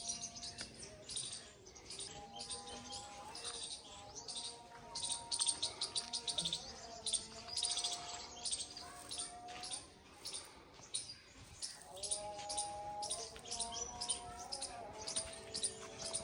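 Small birds chirping and trilling in quick, high-pitched bursts, many calls overlapping, with a few soft held tones beneath.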